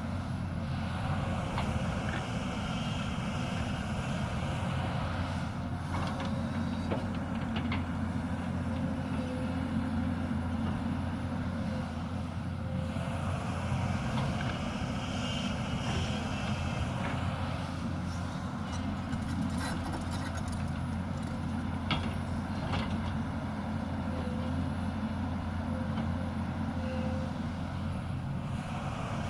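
Hyundai 220 excavator's diesel engine running steadily, with a few short sharp knocks.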